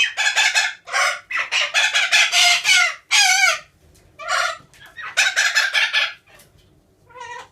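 Pet birds calling loudly in a run of rapidly pulsed, harsh calls. The calls come in several bursts with short gaps, and one brief call comes near the end.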